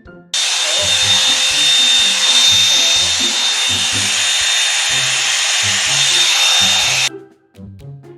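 Revlon One-Step hair dryer and volumizer brush running: a loud, steady rush of air with a high, even motor whine. It switches on just after the start and cuts off suddenly about seven seconds in.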